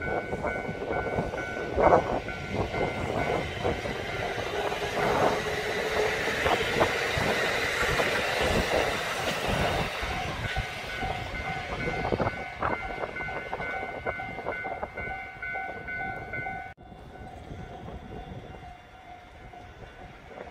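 Electric train running along the track, the wheels clicking over rail joints under a steady rumble, with several steady whining tones held over it. The sound drops suddenly about 17 seconds in.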